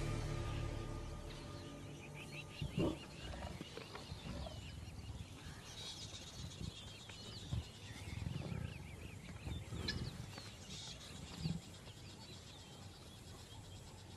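Lionesses growling in short, irregular bouts as they pull down and hold a kudu bull, with two sharper, louder growls about three seconds in and near the end. Small birds chirp high above throughout.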